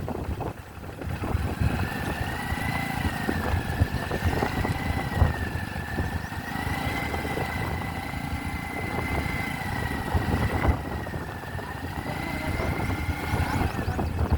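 Motorcycle running on the move, with a steady high whine that wavers slightly in pitch over a gusty low rumble of wind on the microphone.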